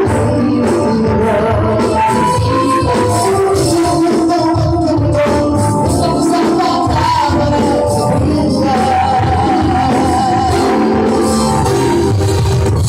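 Live band playing a Latin pop song with a singer and a tambourine, loud and continuous, as recorded from the audience at a concert.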